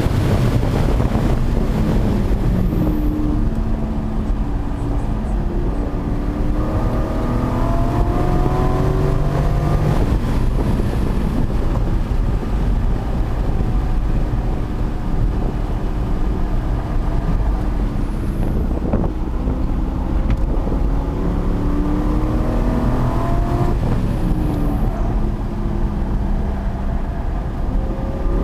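C5 Corvette Z06's LS6 V8 running hard at speed, its pitch climbing under acceleration about a third of the way in, again about three quarters of the way through and once more near the end, easing off in between, over constant road and wind noise.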